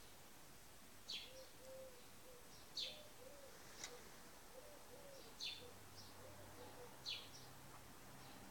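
Faint background birdsong: a small bird gives about five short, high, falling chirps a second or two apart, over soft dove cooing.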